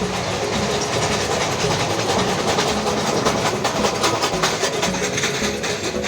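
Nilgiri Mountain Railway train passing close by, its wheels clacking rapidly over the rail joints, loudest around the middle.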